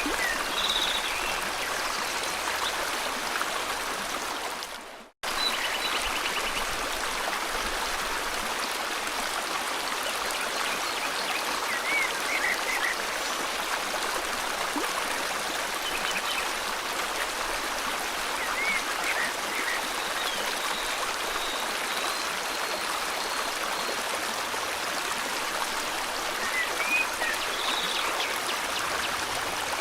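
Steady rush of flowing river water with scattered short bird chirps and trills. The sound fades down to a brief gap of silence about five seconds in and comes straight back.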